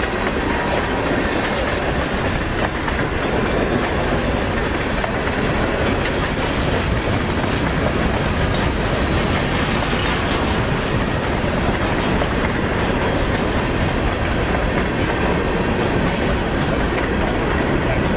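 Freight cars (tank cars and covered hoppers) rolling past at speed, steel wheels on the rails making a steady, unbroken clatter.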